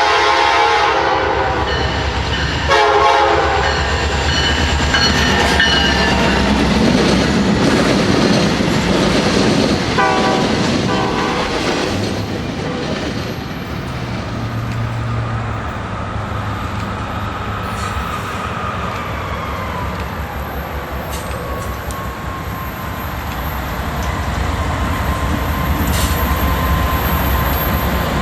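A train passing with its horn sounded in blasts near the start, about three seconds in and about ten seconds in, over the continuous rumble and clatter of wheels on rail.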